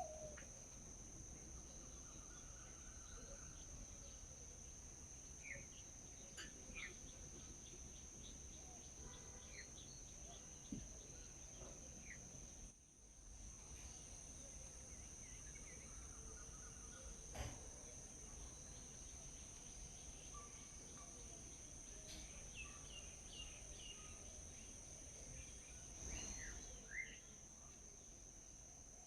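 Steady high-pitched insect drone with short, scattered bird chirps over it and a couple of sharp clicks.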